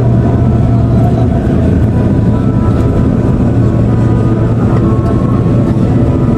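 Steady engine and airflow drone inside the cabin of an Airbus A330-343 with Rolls-Royce Trent 700 engines, taxiing after landing. A strong low hum runs under a few faint steady whines.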